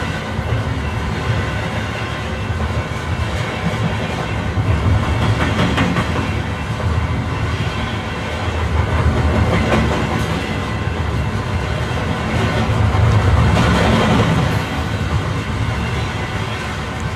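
Train running along the rails, a steady low rumble that swells louder several times, with the wheels clicking over rail joints.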